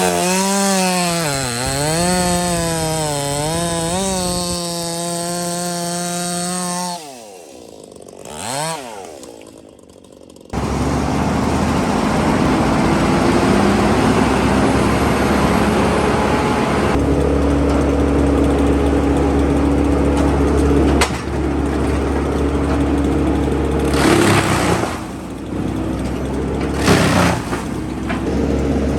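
A chainsaw running, its pitch dipping and rising under load for about seven seconds, then dropping away with one short rev. From about ten seconds in, a steady loud drone of heavy engine-driven machinery takes over, with a few brief louder surges.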